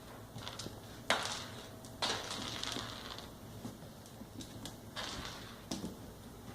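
Ice being knocked about by a puppy at play: a sharp click about a second in, then two longer scraping, crunching noises of ice on a hard surface or in its teeth.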